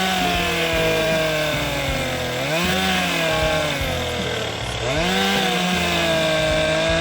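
Gas chainsaw running at high revs, its engine speed sagging slowly, then dropping and picking back up twice, as when the throttle is eased and squeezed again.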